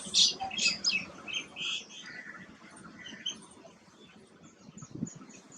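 Small birds chirping: a busy run of short, high chirps in the first two seconds, then fainter scattered chirps. A soft low thump near the end.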